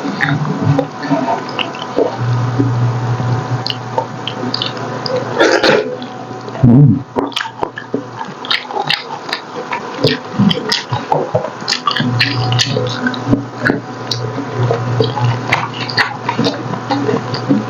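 Close-miked wet chewing and lip-smacking of soft, gelatinous braised pork leg: a steady run of sticky clicks and squishes, with a low "mm" about seven seconds in.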